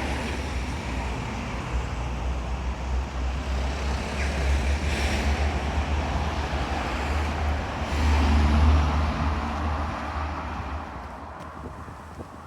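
Road traffic on a city street: vehicles passing with a low rumble and tyre noise. The loudest pass comes about eight seconds in, and the sound fades away near the end.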